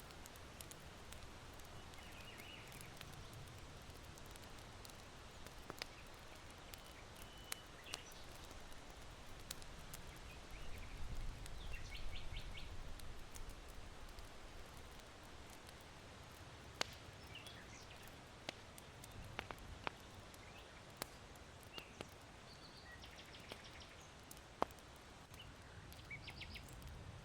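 Charcoal fire in an irori hearth crackling with sparse, sharp pops, while small birds chirp and trill faintly in the distance several times. A low rush of wind swells up and dies away around the middle.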